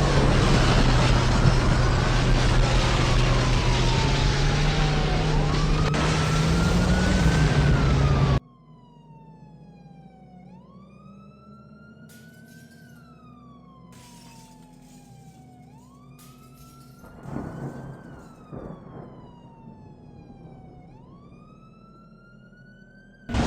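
A siren wailing in repeated cycles, each a quick rise in pitch followed by a slower fall, about every five seconds. Loud wind and road noise underlies it for the first third and then cuts off abruptly, leaving the siren alone.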